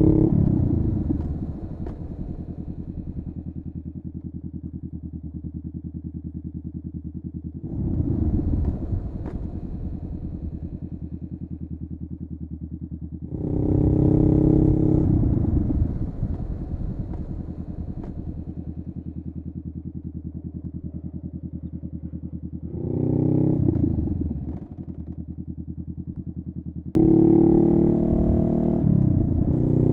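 Honda Rebel 500's parallel-twin engine through a Vance & Hines upsweep exhaust, revving up in short bursts of acceleration several times and falling back to a low, steady idle between them.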